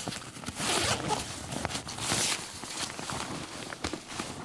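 Rummaging through bags: rustling of fabric and bag material with many small knocks and clicks as things are moved about.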